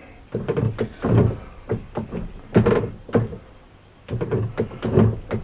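Metal-cutting lathe broaching a keyway: a run of irregular knocks and scraping strokes as the cutter is worked through the bore in repeated cuts.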